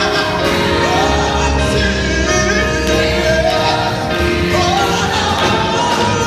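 High school gospel choir singing with instrumental accompaniment: sustained sung notes over a steady bass.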